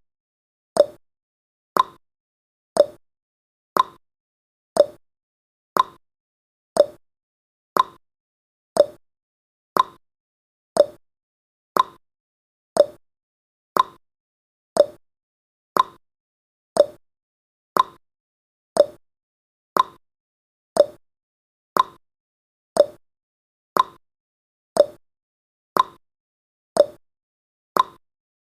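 Countdown timer's ticking sound effect: one short, sharp tick every second, evenly spaced, each fading quickly.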